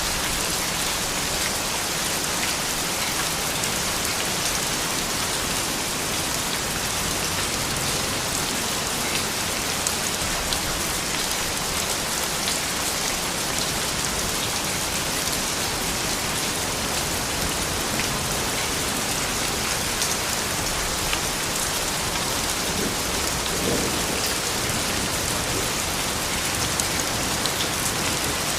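Steady rain falling on a surface, a dense even hiss flecked with many small drop ticks.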